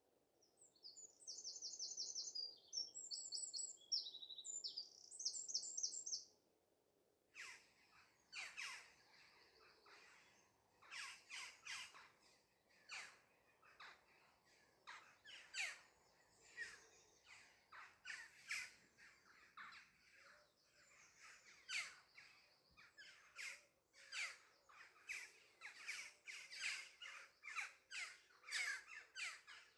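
Birds: a rapid, high trilled song for the first six seconds, then a long run of short, harsh calls repeating about once or twice a second.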